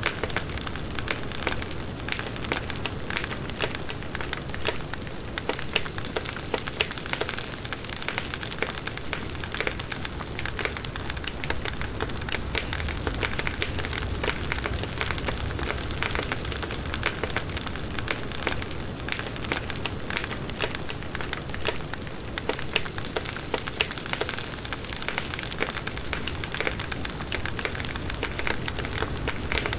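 Firewood burning in a campfire, crackling and popping densely and irregularly without a break.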